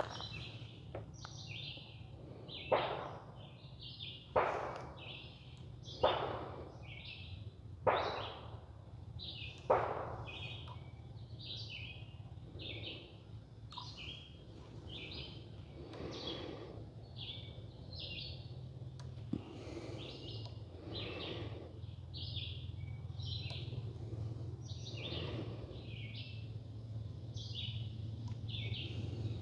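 Birds chirping over and over in short calls, with five sharp bangs about two seconds apart in the first ten seconds, each trailing off briefly, and a few fainter knocks later; a low steady hum runs underneath.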